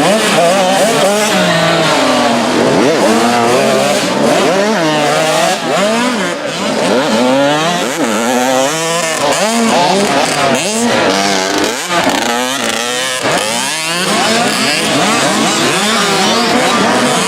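Several 65cc two-stroke motocross bikes racing together, their engines revving up and falling back over and over as the riders accelerate and shut off.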